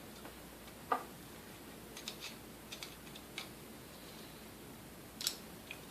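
A few faint, scattered clicks and light metal taps as the coffee mill motor's armature shaft is worked out of its housing: one about a second in, a little cluster in the middle, and one more near the end.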